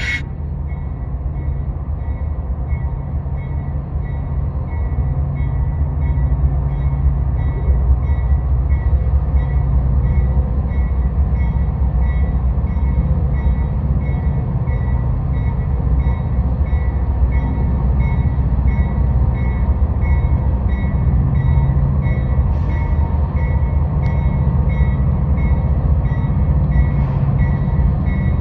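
Train rumbling steadily, a little louder after the first few seconds, with a bell ringing at an even pace, about every two-thirds of a second.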